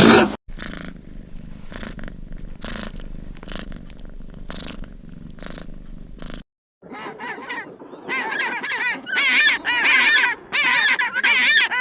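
A cat purring with a steady rhythmic pulse; after a short break about six seconds in, loud bursts of many high, wavering animal calls.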